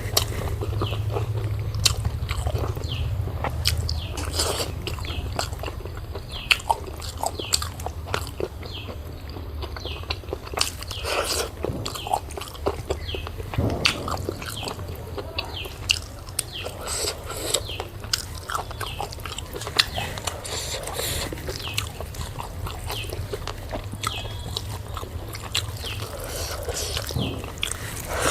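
Close-miked eating sounds: chewing, with frequent short wet smacks and clicks of the mouth, and a steady low hum underneath.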